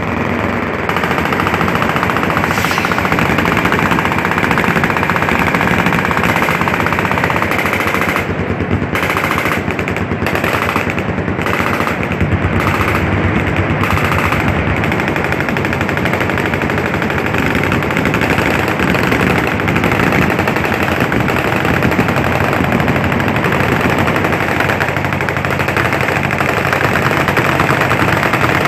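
Two miniguns firing in long sustained streams, the shots so fast they merge into one continuous roar. Between about eight and fourteen seconds in, the fire breaks off briefly several times before running on unbroken.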